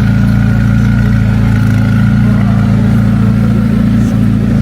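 Vehicle engine running steadily at a constant speed, a loud, even low hum with a faint steady whine above it.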